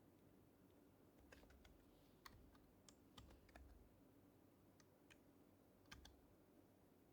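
Faint, irregular typing on an HHKB Professional HYBRID Type-S keyboard, whose silenced Topre keys give soft clicks in a few short clusters. The clicks fall mostly between about one and six seconds in.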